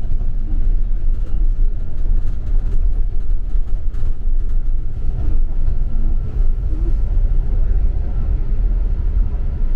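Double-decker city bus running, a steady low engine and road rumble heard from inside the cabin, with a few faint clicks and rattles.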